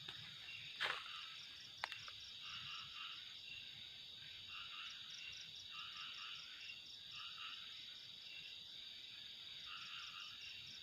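Faint night chorus of frogs calling in repeated short bursts over a steady high trilling of crickets or other insects, with two small clicks about one and two seconds in.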